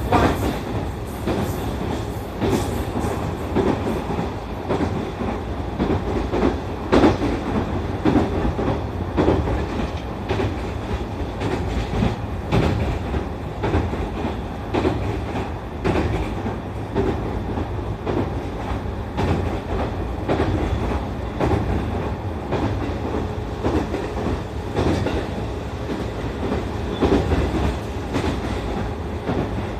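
Inside an E531 series electric train car running along the track: a steady rumble, with the wheels clicking over rail joints every second or two.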